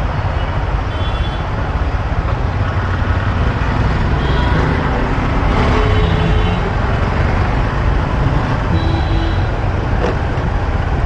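Heavy road traffic heard from a moving bike: a steady low rumble of engines, with a few brief horn toots now and then.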